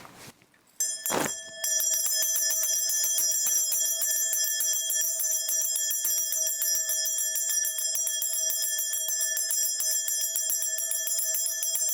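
A cluster of shaman's hand bells shaken rapidly and continuously, a steady bright jangle that starts about a second in.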